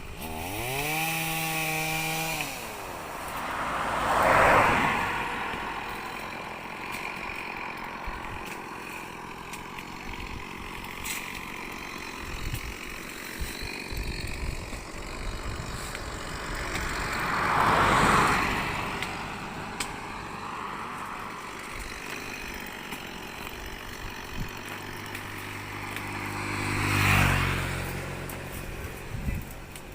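Motor vehicles passing by three times, each swelling and fading over a couple of seconds, about 4, 18 and 27 seconds in. A motor runs at a steady pitch through the first two seconds.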